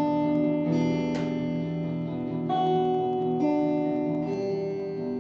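Guitar playing an instrumental passage of ringing chords, the chord changing about every second.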